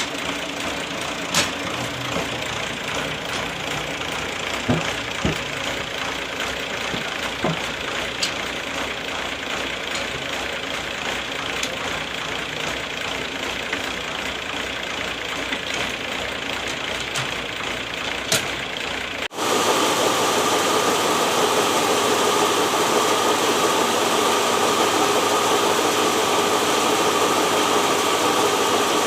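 Engine-driven sawmill machinery running steadily. About two-thirds of the way through it cuts abruptly to a louder steady run with a sustained whine.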